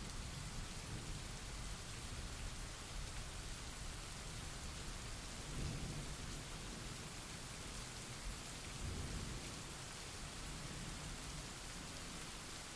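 Steady rain falling, with low rumbles of thunder swelling twice: once about six seconds in and more faintly near nine seconds.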